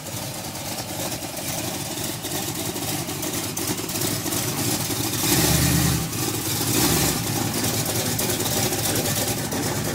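Chevy 350 small-block V8 in a VW Beetle running as the car drives, with a louder, deeper rev about five seconds in as the gas is pressed.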